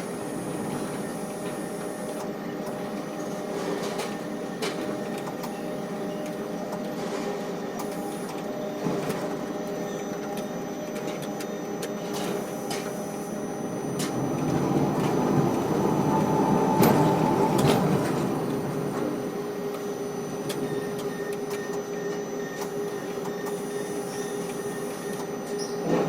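Ship-to-shore crane machinery running: a steady mechanical hum with several held tones and scattered clicks, swelling louder for a few seconds about two-thirds of the way through.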